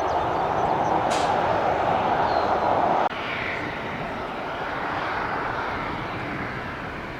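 Jet airliner engine noise, loud and steady, that drops abruptly about three seconds in to a quieter jet sound fading slowly.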